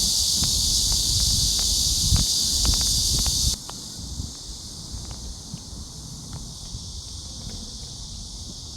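Outdoor ambience: a steady high-pitched insect buzz that cuts off suddenly about three and a half seconds in, over low wind rumble on the microphone and a few light clicks.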